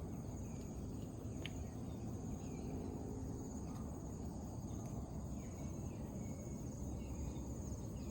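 Insects trilling outdoors: a steady, high-pitched pulsing buzz, over a low rumble of background noise, with a few faint short chirps.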